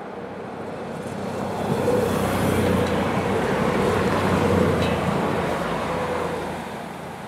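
Vogtlandbahn diesel passenger train passing close by: its running noise swells to a peak over a few seconds and then fades, with a steady hum running through it.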